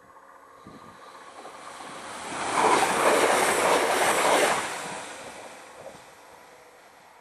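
A train passing at speed: a noisy rush that builds over about two seconds, holds for about two seconds and fades away.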